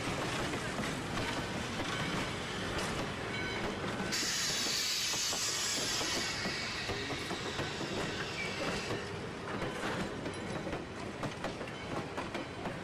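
Passenger coaches rolling past at close range, their wheels rumbling and clacking over the rail joints, with a few brief wheel squeals. About four seconds in a sudden high hiss starts and fades away over the next few seconds.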